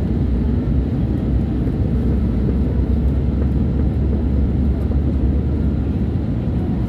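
Passenger airliner landing: a steady low rumble of engines and rushing air.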